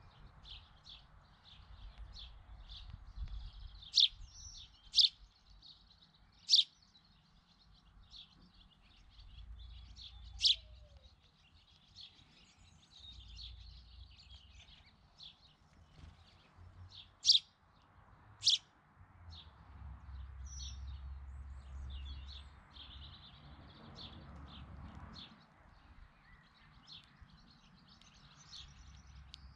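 Small birds chirping and twittering at a seed feeder, a steady run of short high chirps with about six much louder, sharp single chirps standing out.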